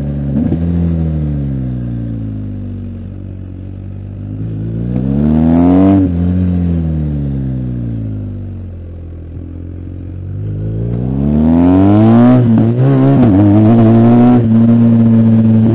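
BMW R1250GS Adventure's boxer twin engine, heard from the rider's seat: it winds down on a closed throttle, pulls up hard, winds down again, then accelerates strongly with a couple of quick gear changes before settling at a steady pace near the end.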